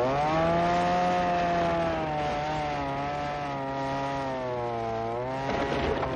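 A power tool's motor running at a steady pitch, the pitch sagging and wavering near the end as if it takes a load.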